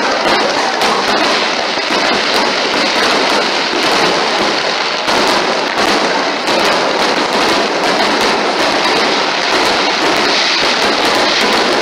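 Fireworks display in a dense, unbroken barrage: many aerial shells bursting at once in a continuous crackle peppered with sharp bangs.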